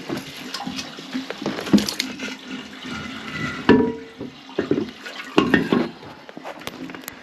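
Toilet water flushing and draining away, with irregular knocks and clatter of handling, the loudest clatter a little past halfway.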